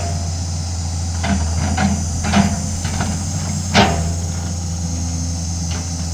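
Excavator diesel engine running steadily with a low hum, over which come several sharp knocks and clanks, the loudest about four seconds in.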